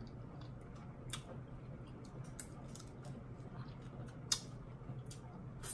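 Close-up eating sounds: soft, wet mouth clicks and lip smacks of someone chewing a mouthful of grits. One sharper click comes about four seconds in, over a low steady hum.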